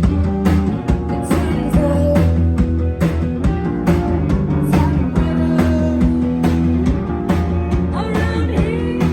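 Live rock band playing: distorted electric guitars and bass over a steady drum beat, with a voice singing over the top.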